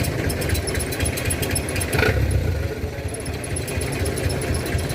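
Truck diesel engine running steadily with a low, pulsing beat, with a brief sharper sound about two seconds in.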